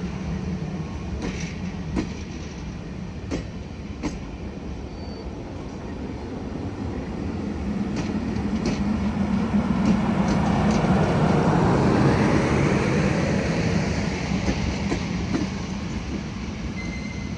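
A train rolling past on the rails: a few sharp wheel clicks over rail joints early, then the noise of the passing train swells to its loudest in the middle and eases off toward the end.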